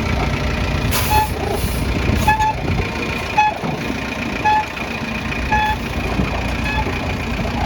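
Daewoo excavator's diesel engine running, with a warning alarm giving short beeps about once a second. A few brief hisses come about a second in.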